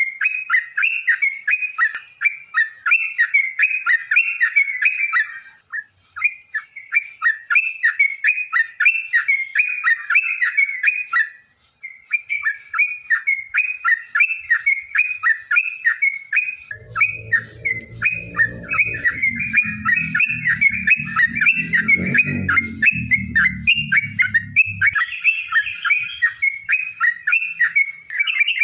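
Yellow-vented bulbul (trucukan) singing a long, rapid chattering song of quickly repeated notes, in long phrases with brief breaks about five and eleven seconds in. A fainter low rumble sits under the song for several seconds in the middle.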